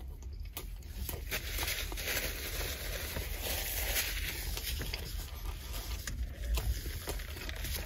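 Close-miked chewing of a beef dip sandwich with curly fries, with many soft mouth clicks.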